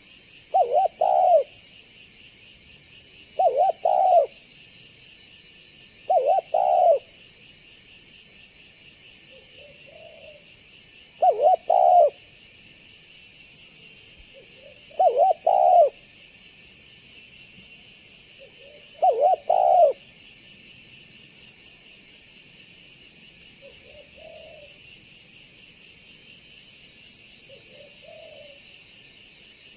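Spotted dove cooing: six loud, short phrases about every three to four seconds through the first two-thirds, with fainter coos from farther off in between and near the end. A steady, pulsing high insect chorus runs underneath.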